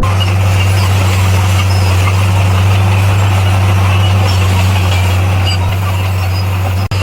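Heavy diesel engine of an earthmoving machine running steadily with a deep, constant drone and machinery noise over it.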